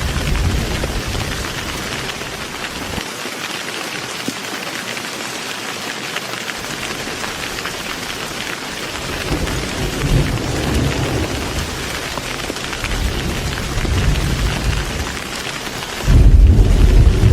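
Heavy rain falling steadily, with low rolls of thunder rumbling midway and a sudden loud thunderclap near the end.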